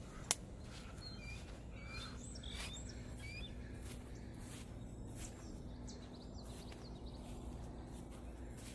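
Small birds chirping, several short high calls in the first half, over faint outdoor background noise. A single sharp click sounds just after the start.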